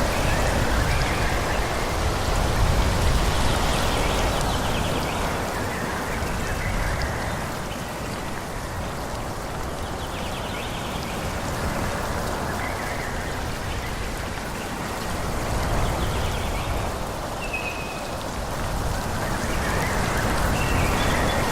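Wind blowing through forest trees, rising and falling in gusts every few seconds, with a few brief high calls over it.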